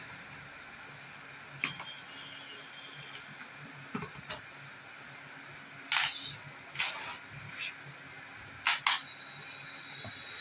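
A handful of sharp plastic clicks and clacks from parts of a washing machine being handled, over a low steady hum. They are spread out, with the loudest about two-thirds of the way in and a quick pair near the end.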